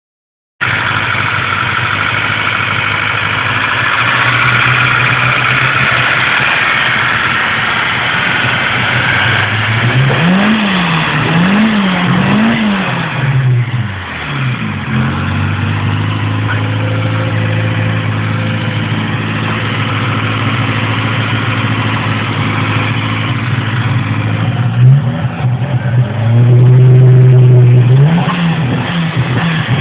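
Turbocharged car engine idling steadily, revved three times in quick succession about ten seconds in, then held louder for a couple of seconds and revved once more near the end.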